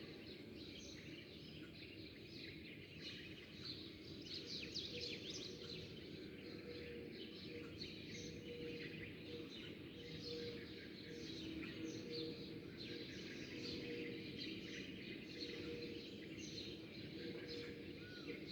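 Many small birds chirping and twittering, a dense scatter of short high chirps throughout, over a steady low background rumble.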